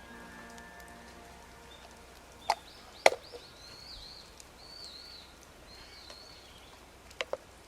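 A few sharp, isolated pops and cracks, a pair about two and a half to three seconds in and another pair near the end, with a bird calling in a run of short warbling notes between them.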